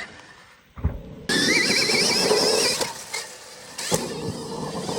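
Motorcycle engine revving hard, cutting in suddenly a little over a second in after a short thump, with a wavering high whine and a few sharp clicks.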